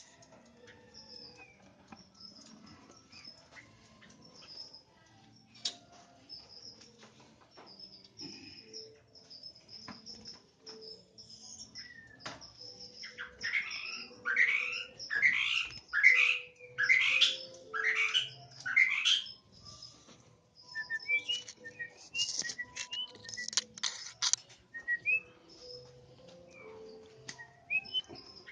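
White-rumped shama calling: faint high repeated notes at first, then, about halfway through, a run of about seven loud sweeping notes, followed by shorter sharp chirps.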